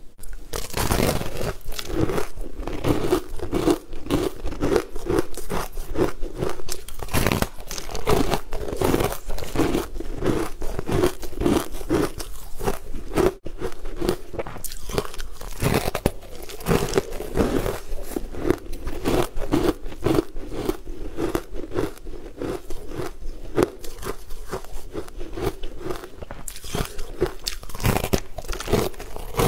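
Close-up crunching as a person bites into and chews a crunchy green-coated bar, with many sharp crunches in quick succession.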